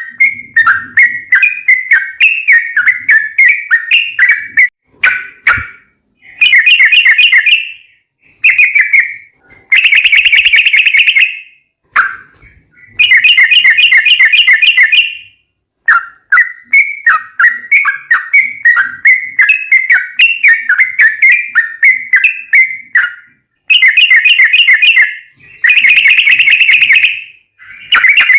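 Yellow-vented bulbul (trucukan) singing a long, rapid song: runs of quick bubbling notes alternate with dense, fast trills, with short pauses between the bursts.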